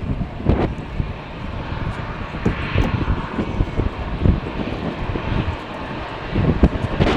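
Jet airliner engines running at the airport, a steady rushing noise, with gusts of strong wind buffeting the microphone.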